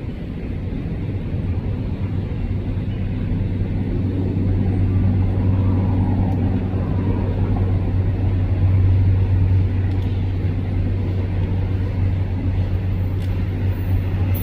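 Train passing through the station, with a steady low engine hum that swells from about four seconds in and is loudest near the middle.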